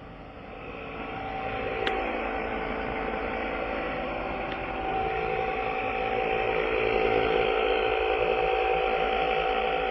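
Small electric air compressor running steadily, a whining hum over a hiss that builds in level over the first few seconds, as it inflates the repaired tire. A single sharp click about two seconds in.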